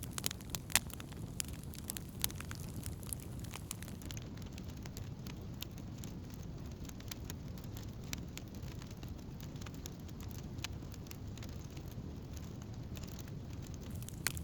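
Wood campfire burning, crackling and popping with many sharp snaps over a steady low rush, the pops thickest in the first few seconds.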